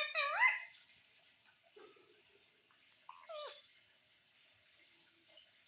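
Pet parrot giving two short vocalisations with swooping pitch, one right at the start and one about three seconds in.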